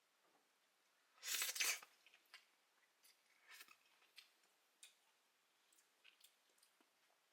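An instant-food packet being opened, with one short noisy burst about a second in, then scattered light crinkles and clicks as the packaging is handled.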